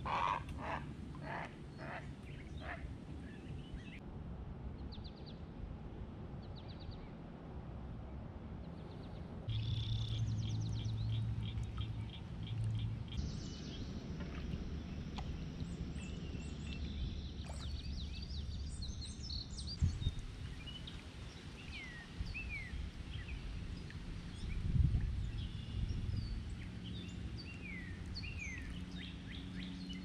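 Wild birds calling and singing by the water, with a few harsh repeated calls at the start, a burst of rapid high chirps about a third of the way in, and a run of short down-slurred whistles in the second half, all over a steady low rumble.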